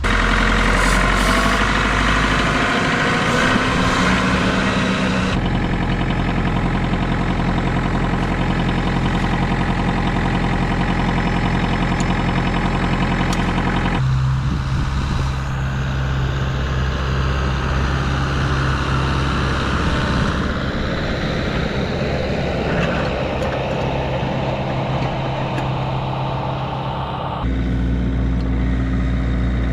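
Kubota compact tractor's diesel engine running steadily. Its sound changes abruptly three times, about 5, 14 and 27 seconds in.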